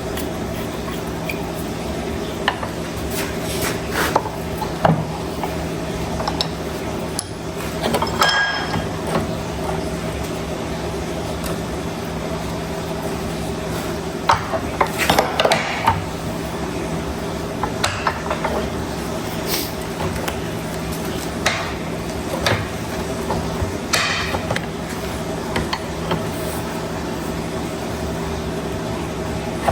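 Small metal parts clinking and tapping now and then as a component is fitted back together by hand, over a steady low hum.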